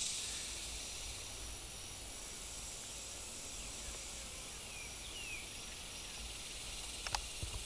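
Steady high-pitched insect drone, with a couple of faint falling bird chirps in the middle and two sharp clicks near the end.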